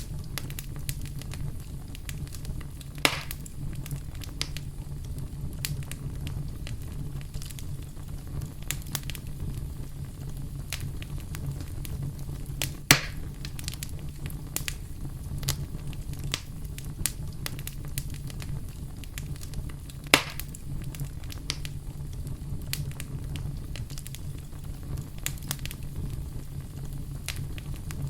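Campfire burning: a steady low rumble of flame with scattered crackles and three louder, sharper pops, about 3, 13 and 20 seconds in.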